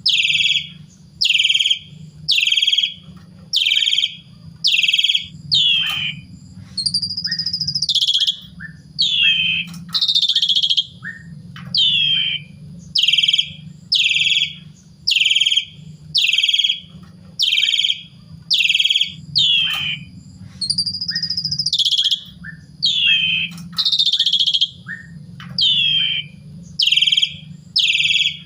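Asian pied starling (jalak suren) singing: a fast run of short, loud notes sliding downward in pitch, about three every two seconds. The run is broken twice by longer, arching whistled phrases. A steady low hum runs underneath.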